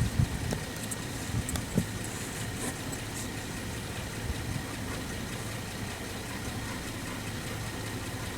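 A car's engine and road noise heard from inside the cabin, a steady low hum, with a few light knocks and rattles in the first couple of seconds.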